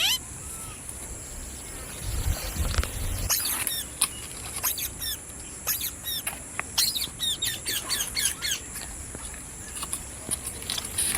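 A parrot giving short squawks and chirps again and again in quick clusters, over a steady high-pitched whine.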